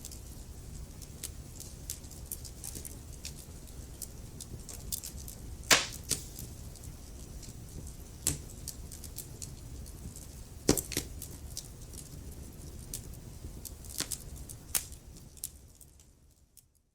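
Wood fire burning in a fireplace: a steady low rumble of the flames with frequent small crackles and pops, and sharper snaps about six and eleven seconds in. The sound fades away near the end.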